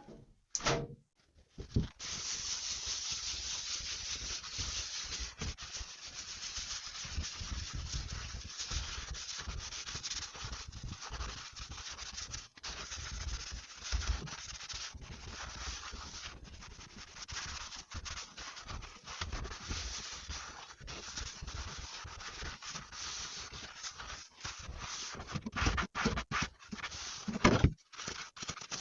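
Sponge scrubbing at the sink, a steady rubbing and scraping that starts about two seconds in and runs on, with occasional soft low knocks.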